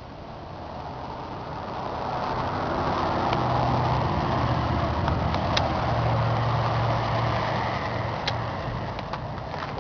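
A John Deere 6400 tractor's diesel engine running, growing louder over the first few seconds and easing off again near the end, with a few sharp ticks.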